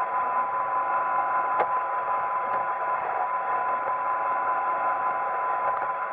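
iRobot Roomba 880 robot vacuum running: a steady whine from its motor over a constant rush of brush and suction noise, with one sharp knock about one and a half seconds in.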